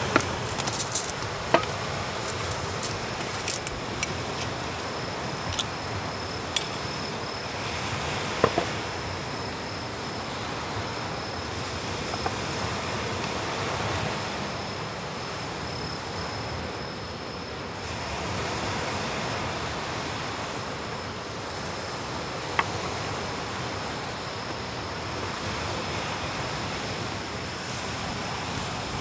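Steady rain hiss. In the first several seconds, wooden chopsticks click and scrape against a foam takeout container and a wooden bowl, with one more light tap later on.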